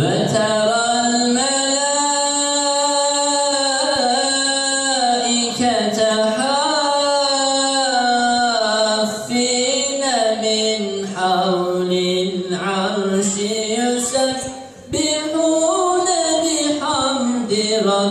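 A solo voice chanting unaccompanied in long, ornamented held notes that bend slowly up and down, with one short break for breath about fifteen seconds in: melodic Quran recitation.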